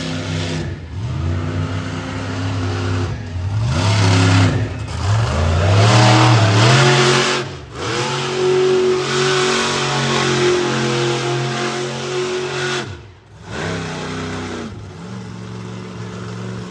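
Monster truck's supercharged V8 engine revving hard, its pitch climbing and falling with the throttle, with several brief cut-outs as the throttle is lifted, the longest about two thirds of the way through.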